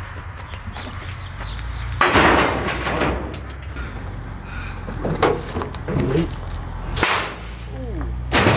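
Old metal car parts being thrown onto a scrap pile: a loud crash about two seconds in that rings on briefly, a few smaller clanks, and two more sharp crashes near the end, over a steady low hum.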